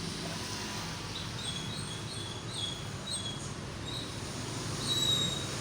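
A small bird chirping, a series of short high calls starting about a second in, the last one the loudest, over a steady low rumble of road traffic.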